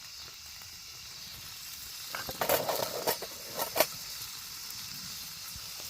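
Bacon sizzling over a campfire, a steady high hiss with a few sharp pops about halfway through.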